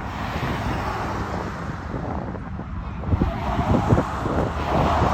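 A steady, broad rush of distant airliner jet engines, growing a little louder near the end, with wind buffeting the microphone in irregular low gusts.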